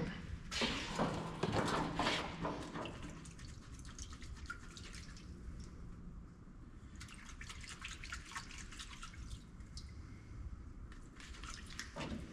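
Parts washer solvent running and splashing as a small oil pump screen is rinsed under it, with irregular drips and light taps.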